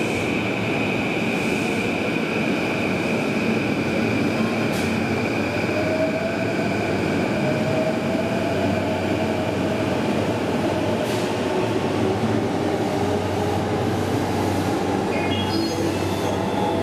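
Electric commuter train pulling out of the platform: rolling rumble with a high steady squeal that fades over the first few seconds, then the traction motors' whine rising in pitch twice as the train gathers speed. A few chime notes sound near the end.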